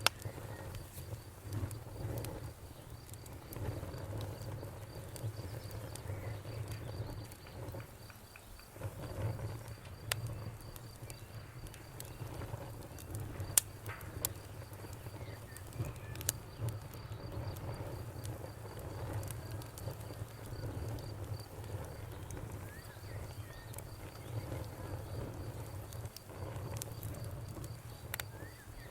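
Wood fire crackling: irregular sharp pops and snaps over a steady low rumble of flames, with one louder pop about halfway through.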